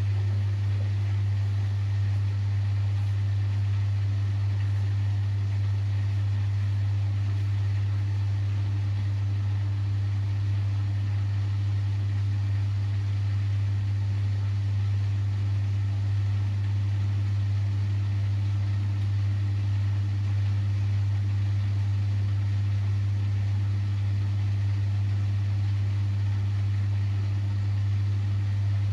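Siemens Extraklasse XLS 140 A washing machine running mid-cycle on a 90 °C boil wash, giving a steady low hum that does not change.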